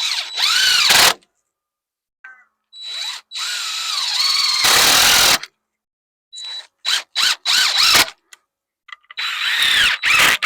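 Power drill running in a series of bursts, one long and several short, its motor speeding up and slowing down within each burst.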